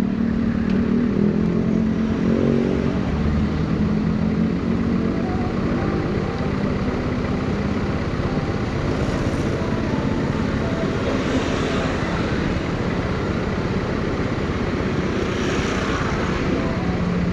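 Motorcycle engine running, a steady rumble with an engine note whose pitch wavers a little in the first few seconds.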